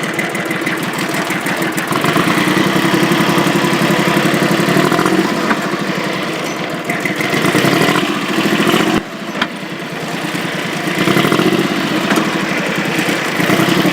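Diesel tractor engine running, its revs rising and falling a few times: up about two seconds in, a sharp drop near nine seconds, then up again around eleven seconds.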